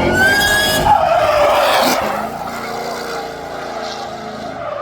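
Tyres squealing and skidding as a vehicle drifts, over a running engine. The squeal is loudest in the first two seconds, then fades to a quieter engine note.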